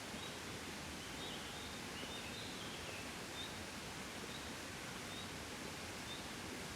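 Soft steady wind, an even rushing hiss with no gusts. Faint short high chirps sound about once a second, with a brief twittering run about two seconds in.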